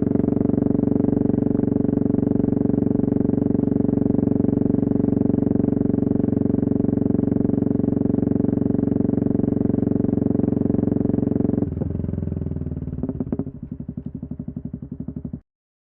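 Yamaha MT-03 660's single-cylinder engine with the dB-killer removed, running steadily through a loud open exhaust. About twelve seconds in, the note drops and turns uneven, then breaks into slow, separate firing pulses before cutting off abruptly.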